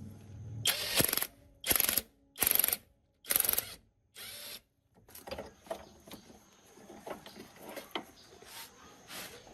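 A tool working on metal: five short bursts in quick succession, then light irregular clicks and taps of metal parts being handled.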